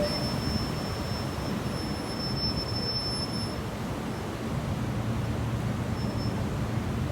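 Steady low rumble of a boat's engine, with a thin high whine over it for the first few seconds.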